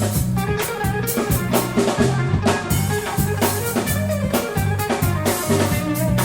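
Band jamming instrumentally: electric guitar over a steady drum-kit beat and a bass line.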